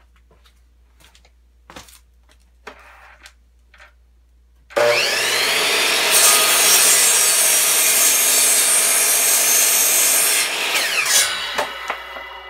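A few faint clicks, then about five seconds in a miter saw's motor starts with a rising whine and its blade cuts through a wooden board for about five seconds. Near the end the motor is released and winds down with a falling whine.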